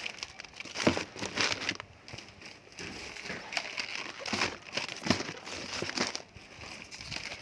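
Plastic packaging crinkling and rustling as it is handled: an irregular run of crackles, with louder ones about a second in and around five seconds in.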